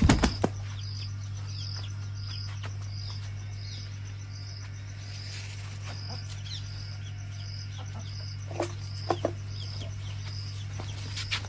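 Birds flapping their wings in a few short bursts, over a steady low hum and an evenly repeating high-pitched chirp about twice a second.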